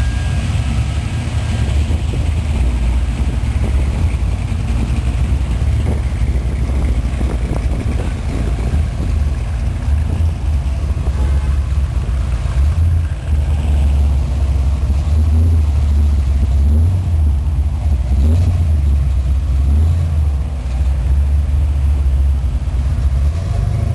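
Steady low rumble of car engines as cruising cars idle and roll past, swelling and easing as they go.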